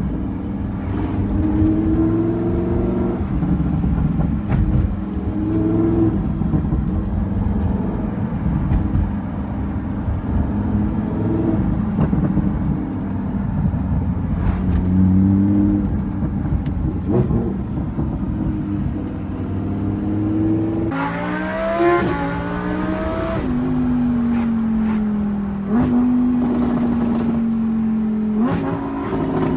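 Lamborghini Huracán's straight-piped V10 exhaust on the move, its note rising and dropping as the car speeds up and slows. About two-thirds of the way through it revs sharply upward, then settles into a steady drone with a couple of quick drops in pitch.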